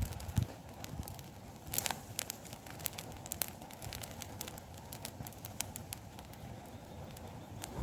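Campfire crackling, with irregular sharp pops and snaps from the burning wood.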